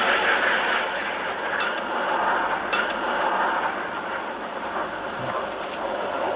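Steady road noise of a moving vehicle, with a few faint ticks and a constant thin high whine over it.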